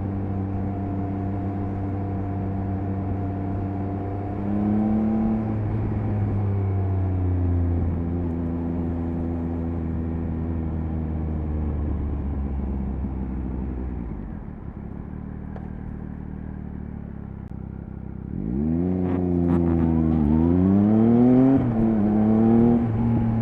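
Triumph Speed Triple 1050 RS's 1050 cc inline three-cylinder engine: steady cruising with a brief rise about five seconds in, then the engine falls back quieter as the throttle is eased off. In the last few seconds it accelerates hard, its pitch climbing and then dropping twice at quick upshifts.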